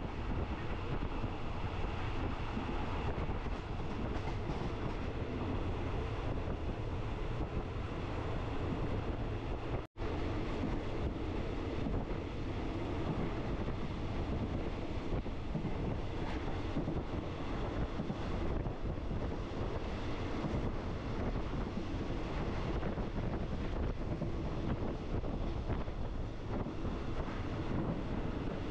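Steady rumble and rattle of a passenger train running along the track, heard from on board. The sound cuts out for an instant about ten seconds in.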